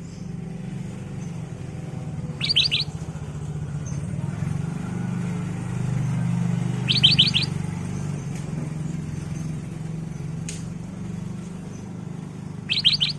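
Black-crested bulbul (kutilang emas) giving three short calls, each a quick burst of about four high notes, spaced about five seconds apart. A steady low hum runs underneath.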